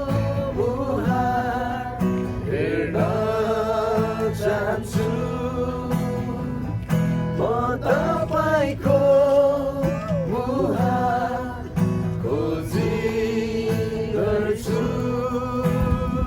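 A Nepali Christian worship song, sung melody with guitar accompaniment.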